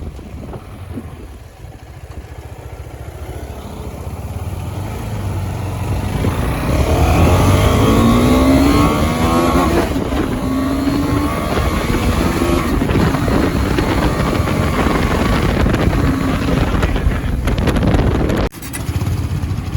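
KTM 390's single-cylinder engine running under load. It grows louder over the first several seconds, then runs hard with its pitch rising and shifting. The sound drops out briefly near the end.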